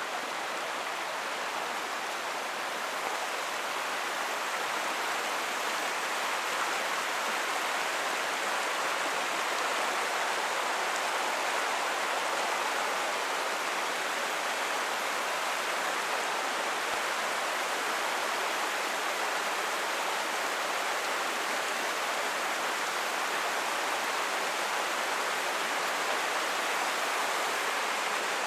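Creek water rushing steadily, a little louder after the first few seconds.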